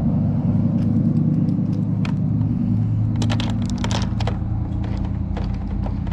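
Steady low motor rumble, with light clicks and taps starting about three seconds in.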